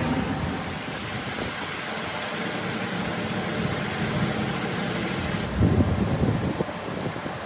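Workshop machinery running steadily with a low hum, then a few knocks about six seconds in.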